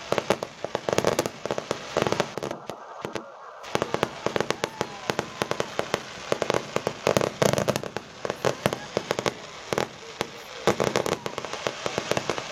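Aerial fireworks going off in a dense, rapid string of sharp bangs and crackles, with a brief lull about three seconds in.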